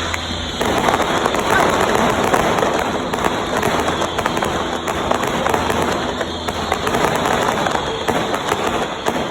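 Fireworks crackling, a continuous dense patter of many small rapid bursts.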